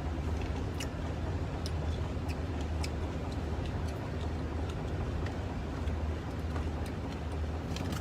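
Steady low hum and hiss of an open refrigerator running with a room fan on, with faint scattered small clicks throughout.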